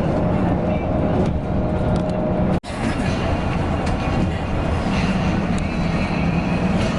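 Coach bus running on the road, a steady engine hum and road rumble heard from on board, broken by an abrupt cut about two and a half seconds in.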